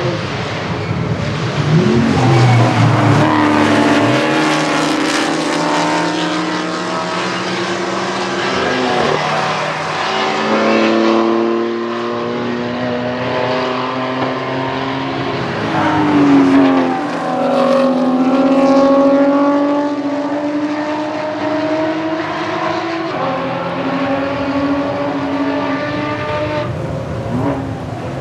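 A string of road-racing cars passing at speed, several in close succession. Their engine notes overlap and rise and fall in pitch as each car goes by and shifts, with louder passes near the start, around the middle and around two-thirds of the way through.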